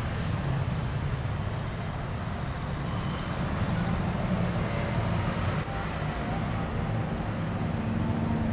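Diesel bus engine running with a steady low rumble, a little louder from about a third of the way in.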